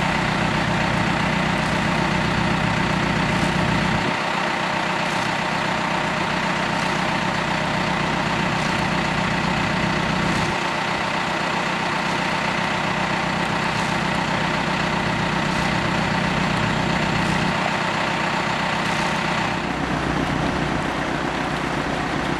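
A vehicle engine idling steadily. Its low rumble drops away and comes back several times.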